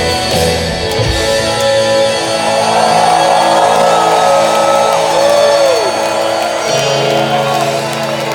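Live rock band holding the song's closing chords on electric guitars: drum hits until about a second in, then sustained chords with a guitar note bending up and back down midway.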